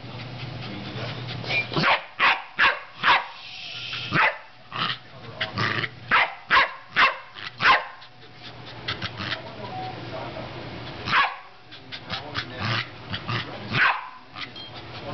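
A corgi barking and yipping in rapid short bursts at an electric air pump, with the pump's steady low hum running underneath. The barks come thickest in the first half, then again about eleven seconds in and near the end.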